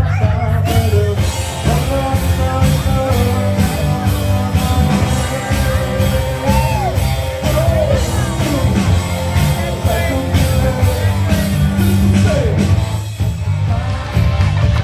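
Rock band playing with a singer over a steady beat.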